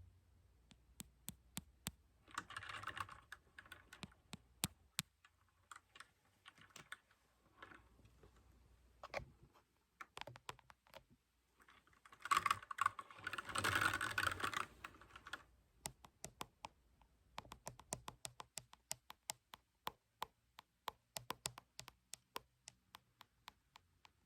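Mechanical keyboard with clicky blue switches being typed on. There are fast runs of keystrokes around three seconds in and again from about twelve to fifteen seconds, with scattered single key clicks between them and a short pause near ten seconds.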